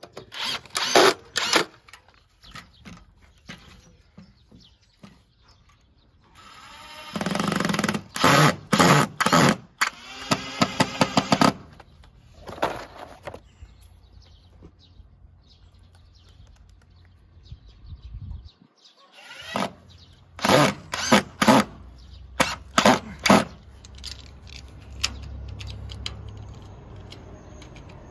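Power drill driving screws into a wooden frame: a longer run about a third of the way in, with several short bursts and sharp knocks before and after it.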